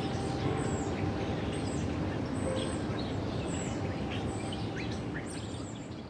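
Small birds chirping in short, high calls over a steady low rumble of outdoor background noise, fading out near the end.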